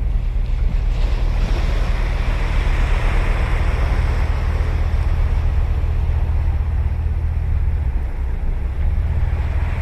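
Ocean surf on a sandy beach: a wave breaks and washes up in a hiss that swells about a second in and fades away, with another starting near the end. A steady low rumble of wind on the microphone runs underneath.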